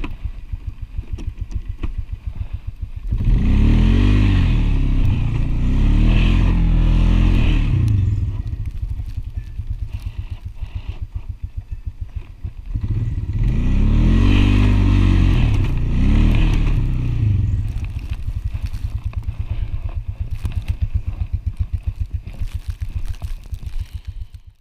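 ATV engine running at a pulsing idle, revved up hard twice for four to five seconds each, its pitch rising and falling in swells during each rev, then dropping back to idle.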